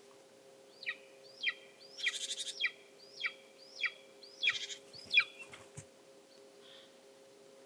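A wild bird calling: a run of about eight sharp calls, each sliding down in pitch, at an even pace of under two a second, with two short rattling chatters among them. The calls stop after about five seconds.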